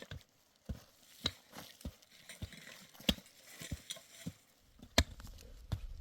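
Hoofbeats of a walking pack animal on hard, stony ground: slow, uneven clopping, with one louder knock about five seconds in. A low rumble of wind on the microphone comes in near the end.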